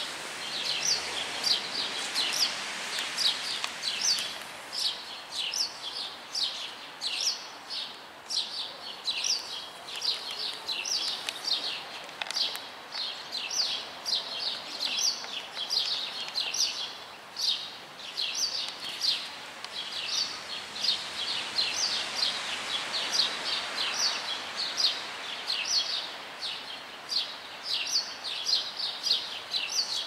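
Several small birds chirping continuously. Short, sharp chirps come several a second and overlap one another.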